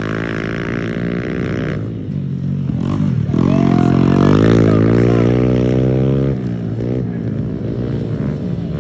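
Pit bike engine running under throttle: its pitch climbs about three seconds in, holds high and loudest for a few seconds, then drops away near six seconds.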